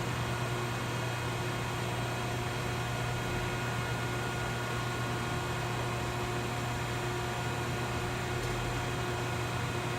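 Vertical cardboard baler's 10 HP Baldor three-phase electric motor and hydraulic pump running steadily: a strong low hum with a few fixed higher tones over an even whir.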